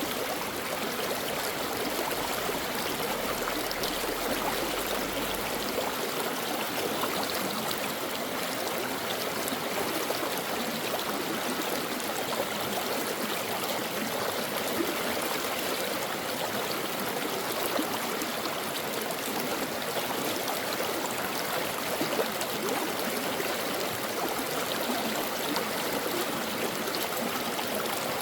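A shallow brook running over rocks: steady rushing and trickling water.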